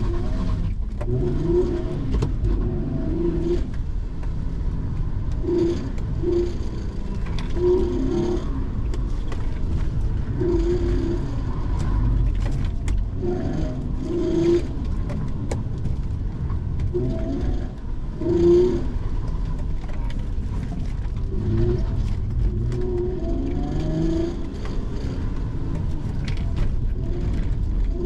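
Hyundai Genesis Coupe's 3.8-litre V6 pulling hard and then backing off again and again, its pitch rising and falling every few seconds as the car is driven flat out through an autocross course.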